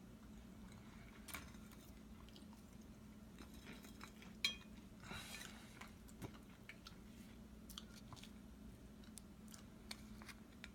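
Faint chewing and small clicks over a low steady hum, with one sharper click about four and a half seconds in.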